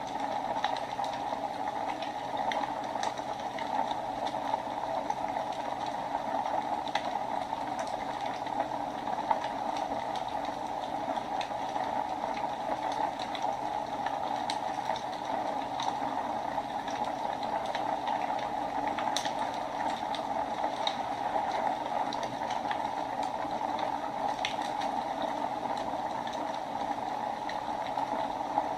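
Wood fire burning in a fireplace: a steady rushing hiss with scattered sharp crackles and pops.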